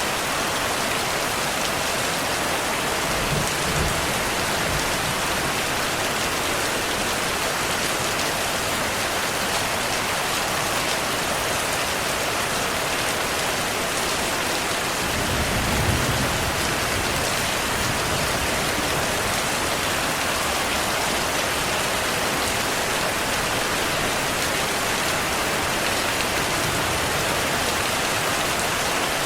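Steady heavy rain falling, with distant thunder rumbling low twice: once a few seconds in and again, a little louder, about halfway through.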